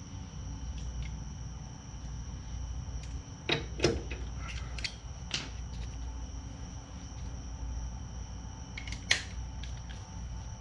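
A few scattered sharp clinks and knocks of hand tools being handled, the loudest about nine seconds in, over a steady low hum and a faint steady high-pitched tone.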